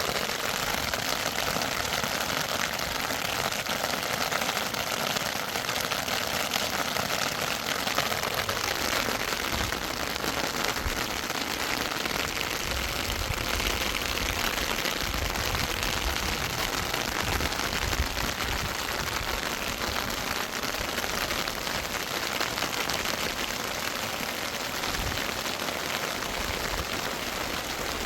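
Heavy rain falling steadily: a dense, even hiss of drops, with low thuds in the middle stretch.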